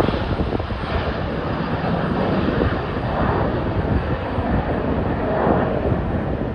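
Steady rushing roar of a jet airliner's engines climbing away after takeoff, with gusts of wind buffeting the microphone.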